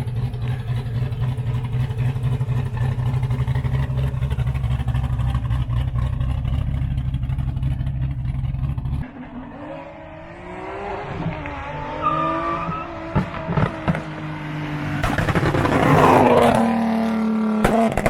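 A loud car engine with a heavy, steady low rumble, which cuts off abruptly about nine seconds in. It is followed by an engine revving, its pitch rising and falling, loudest about three seconds before the end, and then settling to a steady note.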